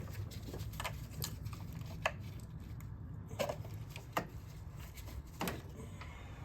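Scattered light clicks and taps, about six over several seconds, as ignition coils, coil boots and hand tools are handled on an engine, over a steady low hum.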